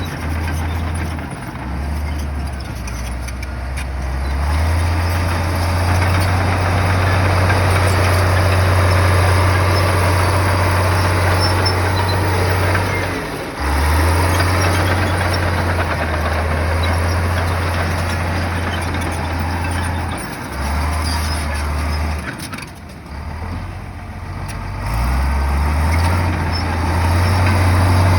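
Komatsu bulldozer's diesel engine working under load, a low drone that shifts in pitch as the load changes. It dips briefly about halfway and eases off for a couple of seconds near the end before building again, with a broad steady noise over it.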